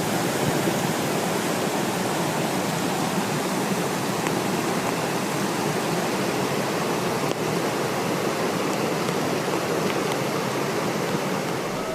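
Floodwater rushing past in a fast, heavy flow: a steady, unbroken noise with no rises or breaks.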